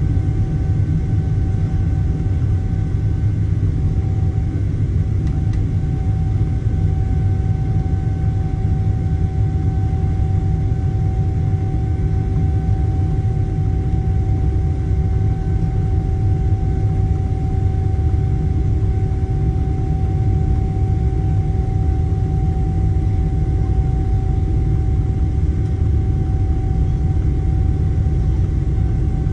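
Steady low engine rumble of a vehicle, with a constant whine on top and no change in pitch or level.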